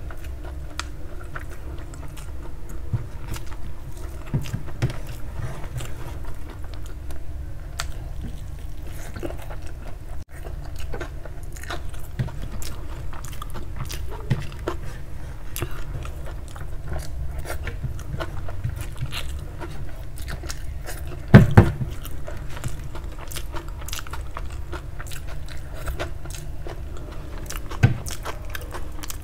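Close-miked mukbang eating: a person chewing and biting food, with many small wet mouth clicks and smacks. Two loud thumps come in quick succession about two-thirds of the way through, and a smaller one near the end.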